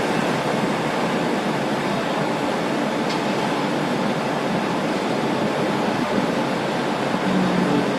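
Steady noise of a Brødrene Aa 40 m carbon-fibre catamaran fast ferry under way: engines and KaMeWa waterjets running, blended with rushing water. A brief low hum comes in near the end.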